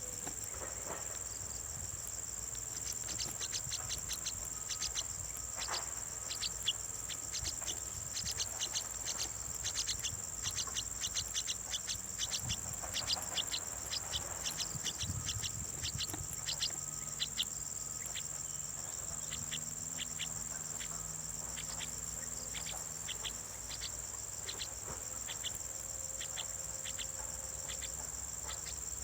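Crickets or other insects trilling steadily at a high pitch. Rapid, short high chirps come thickly for the first half and more sparsely after that.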